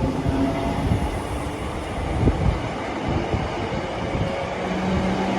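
Scotrail Class 320 electric multiple unit pulling out and running past: wheels rumbling on the track with a steady electric hum.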